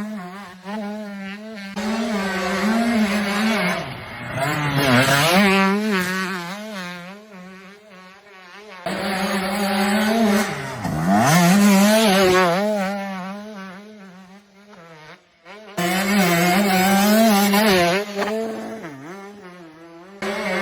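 Motocross motorcycle engine revving, its pitch rising and falling over and over, with sudden breaks a few times.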